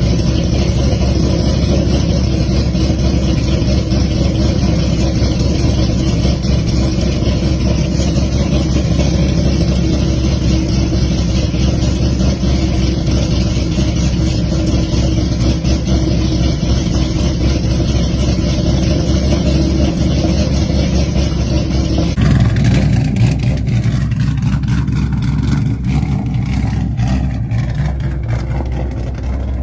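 Ford Mustang GT (S550) V8 running on a ghost cam tune, idling steadily through its exhaust. About 22 s in, the sound changes abruptly and turns choppier.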